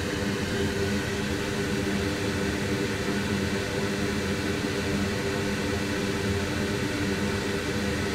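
Steady whirring fan noise with a low, even hum and no change throughout.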